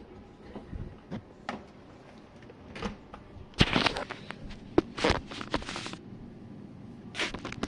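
Jenn-Air dishwasher running its wash cycle, heard from the bottom of the machine: irregular splashing and knocking of water inside the tub over a faint steady low hum, busiest a little past halfway.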